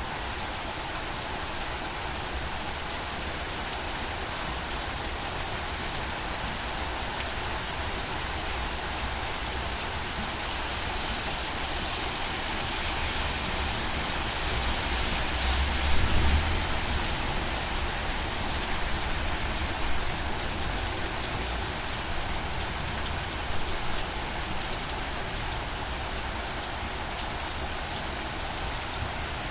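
Steady rain falling on a surface, an even hiss of drops, with a brief low rumble about halfway through and a couple of fainter ones later.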